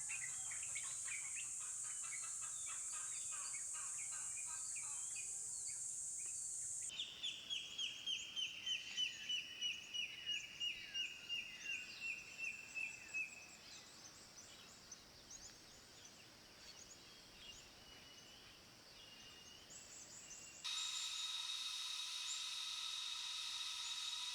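Wild bird calls over a steady high insect hiss. Then a bird gives a fast run of about two dozen notes that fall slightly in pitch and fade out. Near the end a steady drone of several tones starts abruptly.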